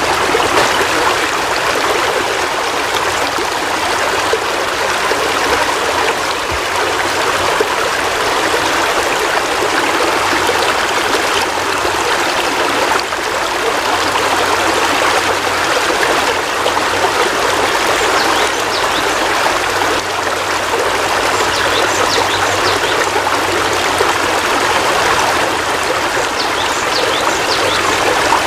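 Heavy rain falling steadily, an even wash of noise with scattered faint ticks of drops.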